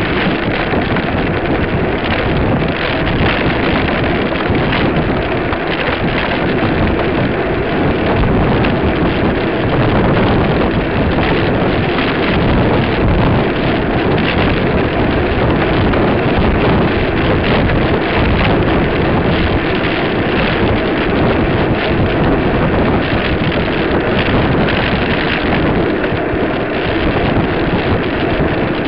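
Steady wind rushing and buffeting on the microphone, a loud, even noise with no clear tone.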